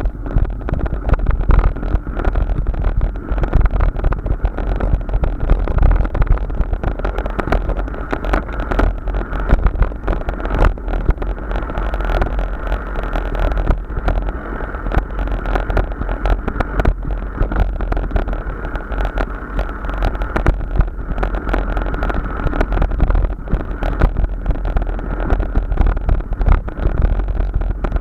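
Riding noise from a moving bike: steady rumbling wind buffeting the microphone, mixed with road noise.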